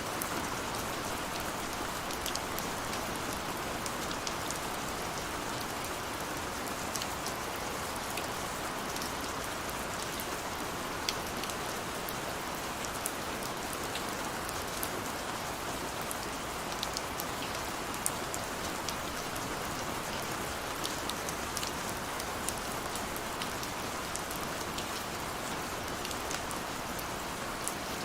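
Steady rain falling, a constant wash with many small scattered drop ticks throughout.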